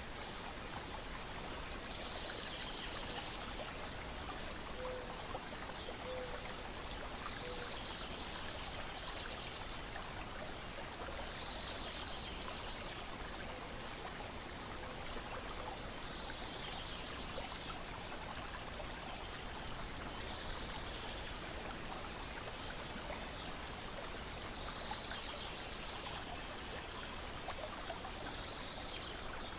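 Steady wash of small lake waves lapping against the shore and a deck, with a brief high chirping sound recurring every two to four seconds.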